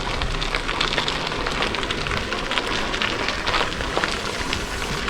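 River water rushing below a bridge, a steady noisy hiss with fine crackling.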